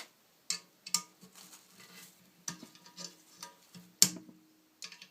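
A series of sharp clicks and knocks from objects being handled and set down, the loudest about four seconds in.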